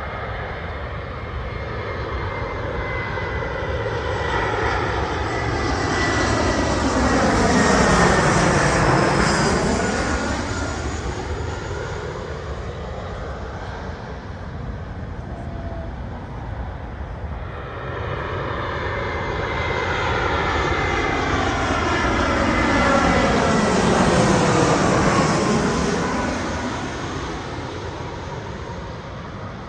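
Two jet airliners passing low overhead one after the other, each engine noise swelling to a peak and then fading, the first about eight seconds in and the second near the end.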